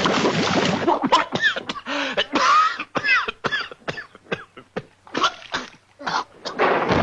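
Cartoon sound effects made by hand and voice: a dense noise cuts off about a second in. After that comes an irregular run of sharp clicks and knocks, mixed with short squeaky sliding tones and cough-like noises.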